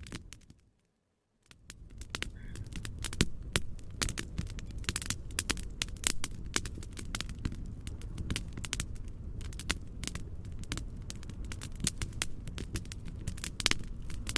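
Wood fire crackling, a dense run of sharp pops and snaps over a steady low rumble. A moment after it begins the sound fades out to silence for about a second, then fades back in.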